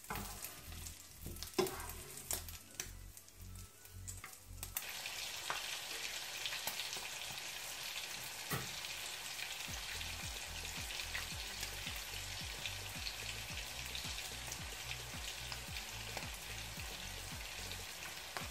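Minced meat frying in a pan, stirred and scraped with spatulas, with a few clicks of the utensils on the pan. About five seconds in, a steady sizzle starts and carries on.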